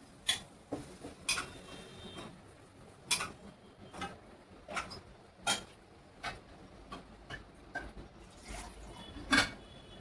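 Kitchen utensils clinking and knocking: about seven sharp, separate taps spread unevenly over the seconds, the loudest near the end.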